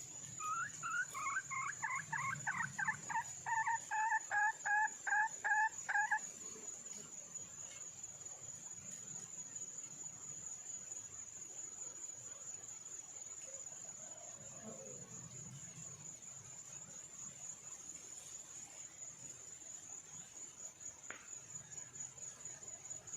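Junglefowl hen calling for a mate: a quick run of short, repeated clucking notes that grows louder over about six seconds and then stops. A high, steady insect trill carries on underneath throughout.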